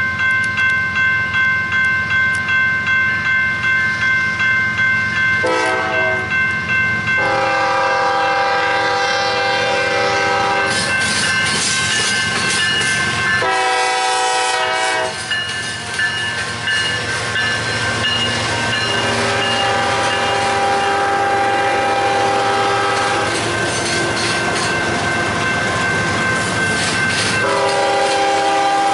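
Road-crossing bell ringing about twice a second as CSX freight trains approach. A locomotive air horn then sounds several blasts, some short and some long. The lead locomotive and its intermodal container cars pass close by with a heavy rumble and the clatter of wheels over the rail joints.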